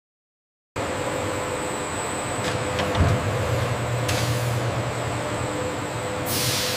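Steady hum and hiss of factory machinery, starting abruptly after a moment of silence. A few clicks and a thump come about three seconds in, and there are bursts of hiss later on.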